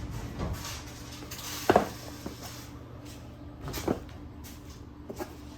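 Two sharp knocks and a few lighter clicks of hard objects being handled, over a steady low hum.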